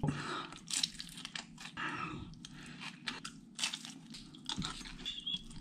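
A man chewing and crunching food close to the microphone: irregular, wet, crisp mouth noises with small clicks.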